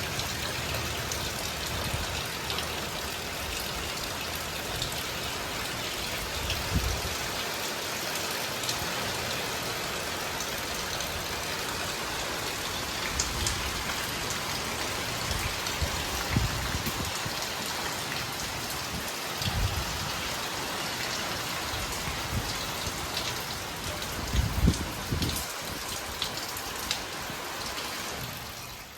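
Steady rain falling, a dense even hiss with scattered louder drop taps. A few low thuds stand out, the loudest about 25 seconds in.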